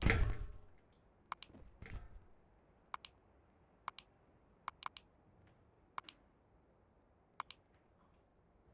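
A loud noisy sound dies away within the first second. Then come a low thump about two seconds in and a series of sharp clicks, mostly in quick pairs, one to one and a half seconds apart.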